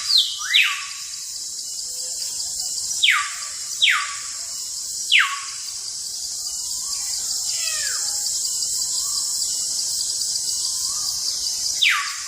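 Steady, high insect drone like a cicada chorus, with loud short whistles that sweep sharply downward, about six of them at irregular intervals, in a bird-like call.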